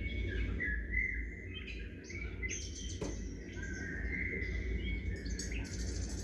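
Small birds chirping and calling in overlapping short whistled notes, with a rapid run of high, repeated notes near the end and a single sharp click about three seconds in. A steady low rumble runs beneath.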